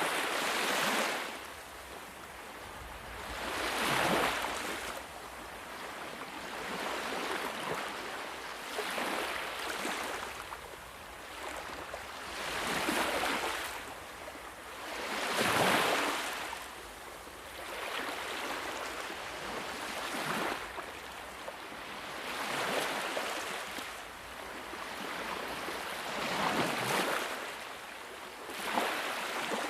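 Sea waves breaking on a shore: a hiss of surf that swells and falls back about every two to three seconds, one wave louder than the rest near the middle.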